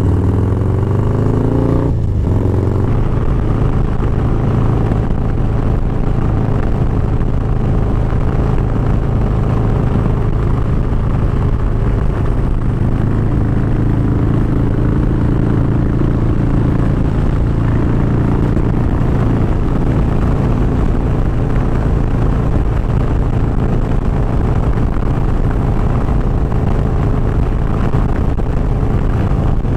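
Harley-Davidson Dyna's V-twin engine running steadily while the motorcycle cruises, with a short break in the engine note about two seconds in.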